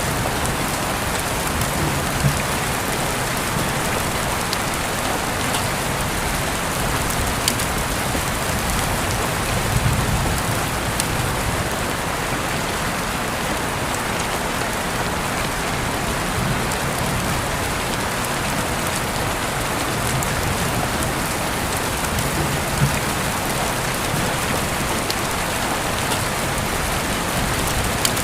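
Steady rain falling on a surface, a dense even hiss with occasional louder individual drop hits.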